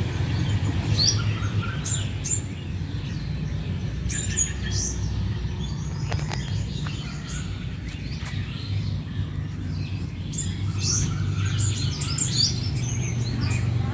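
Wild birds chirping in short, scattered calls throughout, over a steady low background rumble.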